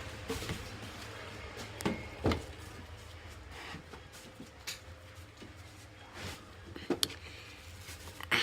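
A few light knocks and clicks scattered over a steady low hum.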